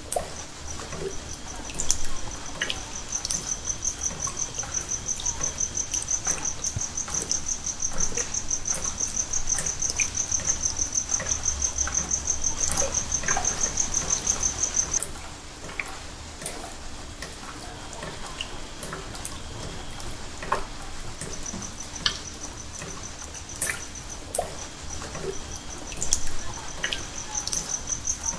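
Insect-like chirping, a high, rapid pulsing that stops about halfway through and returns near the end, over scattered small drips and clicks.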